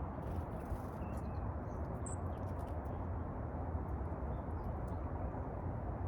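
A few short, faint bird chirps, one brief high note about two seconds in, over a steady low rumbling background noise.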